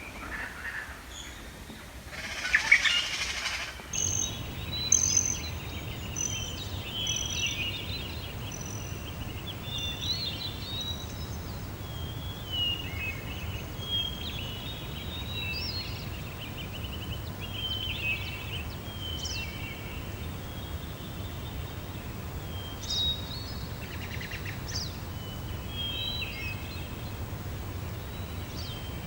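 Songbirds chirping and trilling, with many short calls overlapping. About two seconds in there is a brief, louder harsh sound, and from about four seconds on a steady low rumble runs underneath.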